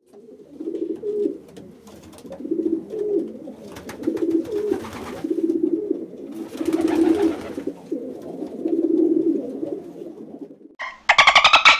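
Feral pigeons cooing: low, throaty coos in repeated phrases about every second and a half. Near the end a much louder, high-pitched run of rapid pulses cuts in.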